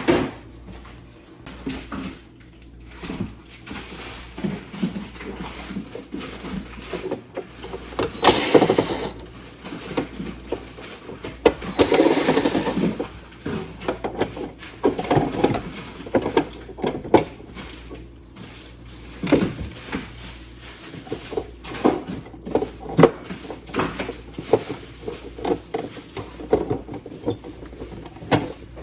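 Irregular clicks, knocks and rustling of hands and tools working on a refrigerator during a repair test, with two louder scraping spells about 8 and 12 seconds in, over a low steady hum.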